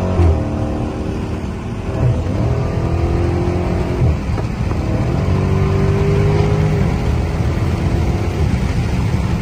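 Dodge Charger Scat Pack's 392 (6.4-litre) Hemi V8 in a few hard pulls. The pitch climbs and drops back at each upshift, about two seconds apart, then settles to a steadier run near the end.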